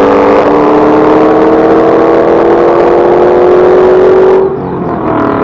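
Supercharged V8 of a Ford Mustang Shelby GT500 accelerating hard, its revs climbing steadily. About four and a half seconds in the throttle is lifted and the sound drops off suddenly, the revs falling away.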